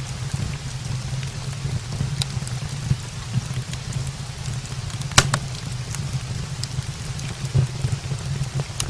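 Steady rain with a wood fire crackling in a brick fireplace: a continuous low rushing, scattered through with sharp pops, the loudest about five seconds in.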